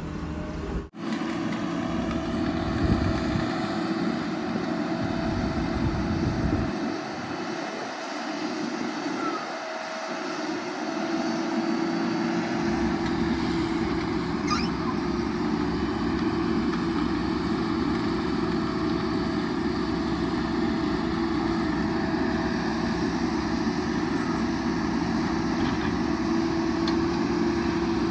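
Heavy diesel engine of earth-moving machinery running steadily, a backhoe loader or a tractor at work.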